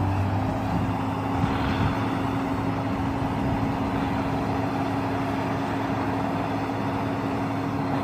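Heavy diesel machinery of an excavator-mounted DTH drill rig running steadily: a constant engine hum over broad mechanical noise. A deeper drone drops away just after the start.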